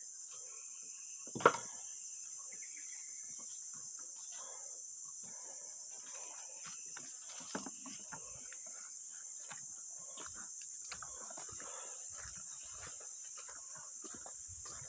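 Steady high-pitched drone of insects from the surrounding vegetation. A single loud knock comes about a second and a half in, with a smaller one about halfway through, and scattered faint rustles and clicks throughout.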